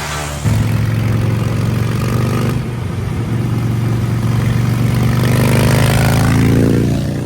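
Motorcycle engine running, getting suddenly louder about half a second in, then climbing in pitch as it is revved up over a couple of seconds and easing off near the end.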